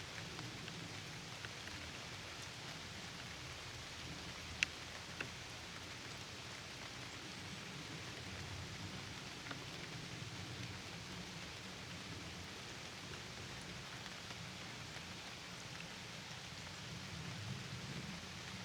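Steady rain falling, a continuous even patter with a few single louder drops, two of them standing out about four and a half and five seconds in.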